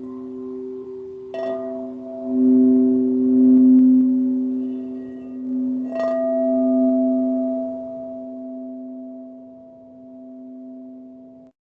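Singing bowls ringing in long, overlapping steady tones. A bowl is struck twice, about a second and a half in and again about six seconds in, and the tones swell and slowly die away. The sound cuts off suddenly near the end.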